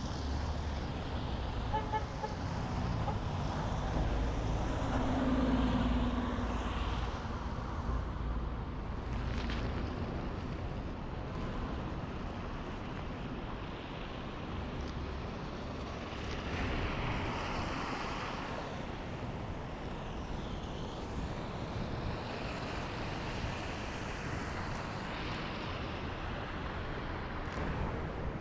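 City street traffic noise, a steady wash of passing vehicles, with a heavier low rumble for the first several seconds and a short low tone, like a horn, about five seconds in.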